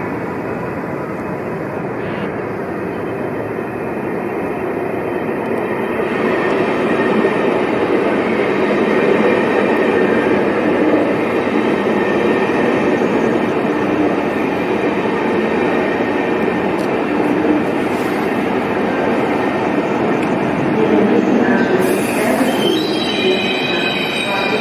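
ICE high-speed train pulling into the platform and rolling slowly past, a steady rumble of wheels and running gear. High wheel squeal sets in near the end.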